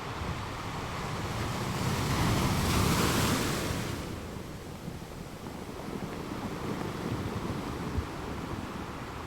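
Ocean surf: a wave breaks and washes up the beach, swelling to a peak about three seconds in and then falling back to a steady wash.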